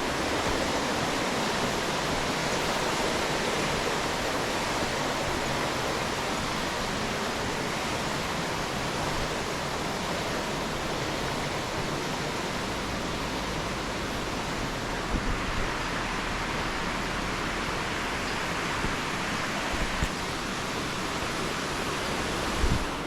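Steady rushing of a fast-flowing mountain river, an even hiss of water with no change in level.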